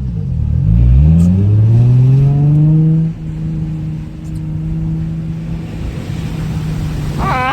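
Nissan 350Z's V6 engine accelerating: the revs dip briefly, climb steadily for about three seconds, then hold level.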